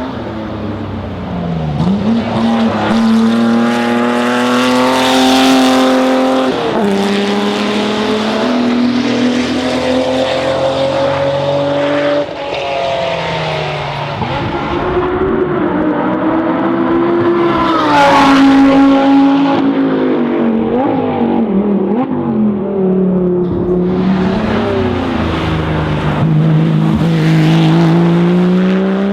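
Historic racing car engine under hard acceleration, its pitch climbing through each gear and dropping sharply at every upshift. About two-thirds in it falls away with a few short throttle blips, then climbs steadily again.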